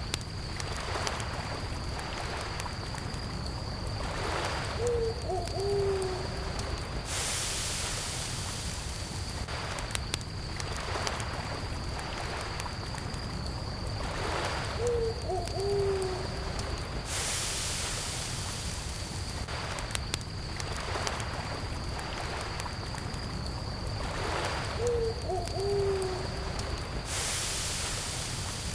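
Campfire crackling with a steady chirping of crickets, and water washing in three times, about every ten seconds. An owl hoots three times, about ten seconds apart.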